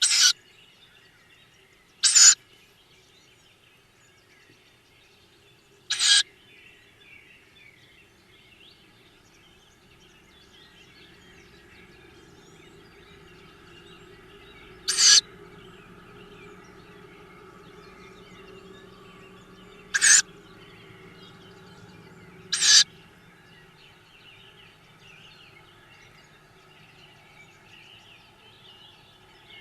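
Tawny owl chicks in the nest box giving six short, loud begging calls at irregular intervals of a few seconds, with a faint low hum underneath through the middle stretch.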